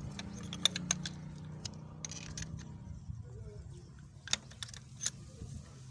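Irregular light metallic clicks and taps of a socket and extension being fitted onto a spark plug and worked loose, over a steady low hum.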